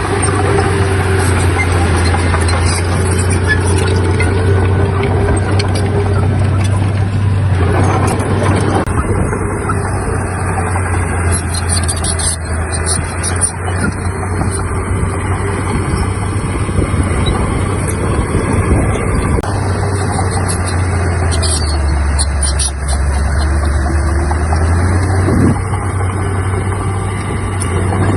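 Heavy diesel earthmoving machinery running steadily under load. Its low engine hum drops in pitch for a few seconds about two-thirds of the way through, then rises again.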